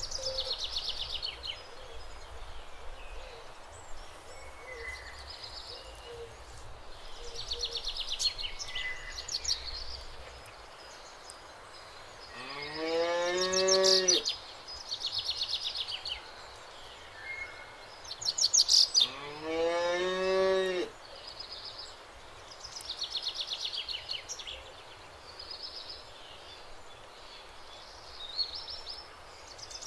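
Cow mooing twice, two long calls that rise in pitch at the start, about five seconds apart, the second one longer. Birds chirp in short, rapid trills throughout.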